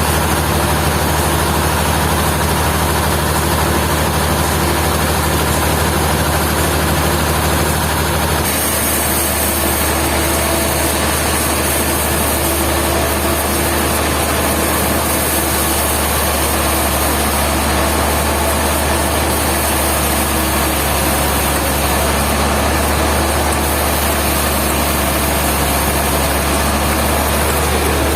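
Sawmill machinery running steadily with a heavy, engine-like hum; the sound shifts abruptly about eight seconds in and then carries on steady.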